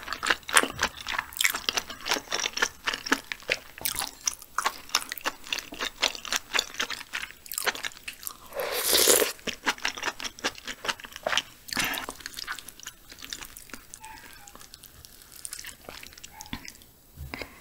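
Close-miked mouth sounds of someone eating spicy braised chicken stew: many quick wet chewing clicks, with one slurp of broth from a spoon about nine seconds in. The chewing grows sparser and quieter after about twelve seconds.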